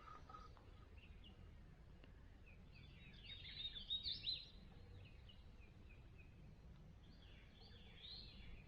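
A songbird singing: a quick phrase of high, down-slurred chirps about three seconds in and a shorter phrase near the end, over a faint low rumble.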